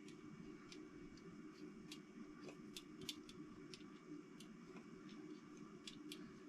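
Faint, irregular small clicks and taps of engine parts being handled by hand, over a low steady room hum.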